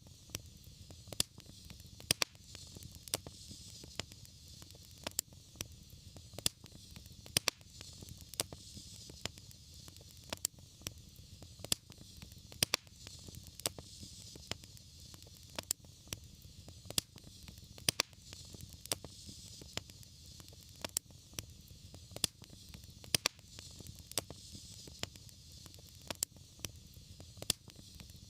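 Wood fire burning in a fireplace, crackling with irregular sharp pops, several a second, over a steady low rumble and soft hiss.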